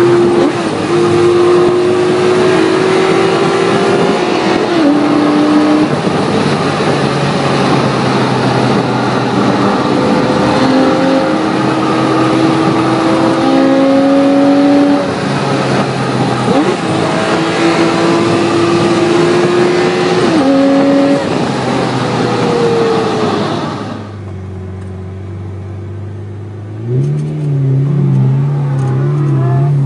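Supercar engine heard from inside the cabin under hard acceleration on the road, its pitch climbing and dropping back at each gear change, several times over. About 24 seconds in the engine lifts off to a much quieter, low run, then picks up and rises again near the end.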